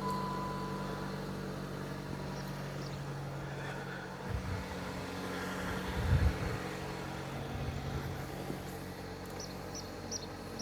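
2014 Chrysler 200 engine idling steadily, with two low thumps about four and six seconds in.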